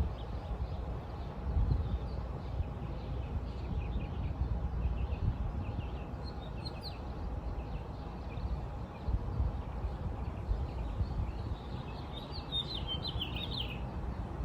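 Wild birds chirping, with one louder burst of quick notes falling in pitch near the end, over an uneven low rumble of background noise.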